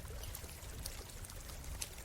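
Campfire crackling with irregular sharp pops, over the steady rush of a flowing stream.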